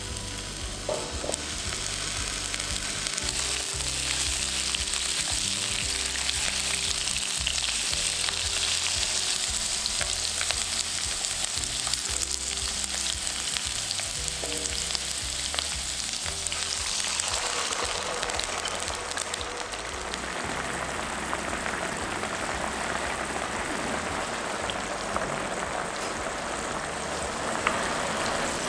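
Halved baby potatoes sizzling steadily as they fry in oil in a pan, with the light scrape of a wooden spoon turning them. About two-thirds of the way in, the high hiss gives way to a rougher bubbling as the potatoes simmer in soy-sauce braising liquid.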